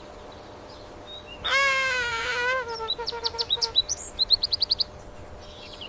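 Bird calls: one harsh, wavering call lasting about a second, then a scatter of short high chirps and a quick run of about seven rapid chirps.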